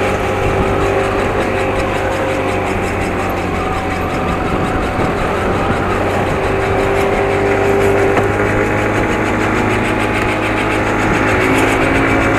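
Yamaha R1 Mini mini motorcycle engine running at a steady speed while being ridden.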